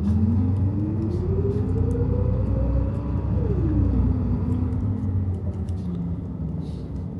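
Car on the move: a steady low rumble, with a whine that climbs for about three seconds and then drops quickly.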